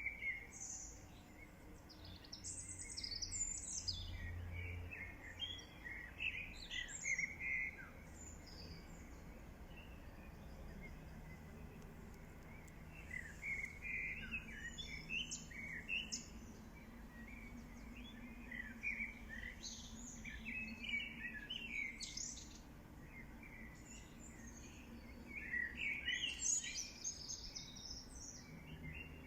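Small birds chirping and singing in several bursts of quick high notes, over a faint steady low hum.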